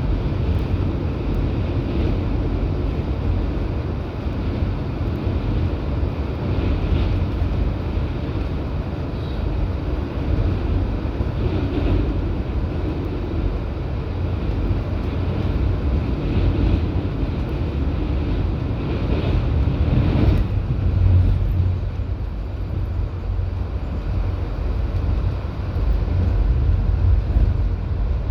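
Intercity passenger train running, heard from on board: a steady low rumble with wind noise on the microphone.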